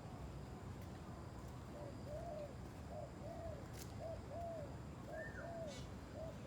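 A bird cooing: a run of low, arched coos in short-then-long pairs, about one pair a second, starting about two seconds in.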